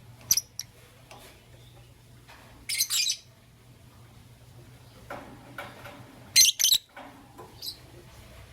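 Lovebirds giving short, shrill chirps and squawks in scattered bursts: one call near the start, a quick run of chirps about three seconds in, and two loud calls about six and a half seconds in.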